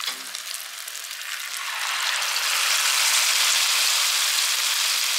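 Dollops of batter frying in hot oil in a frying pan: a steady crackling sizzle that grows louder and fuller about two seconds in.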